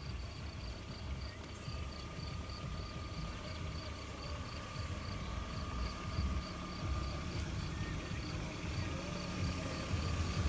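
Insect chirping in an even rhythm, about three high chirps a second, over a low rumble that grows louder near the end.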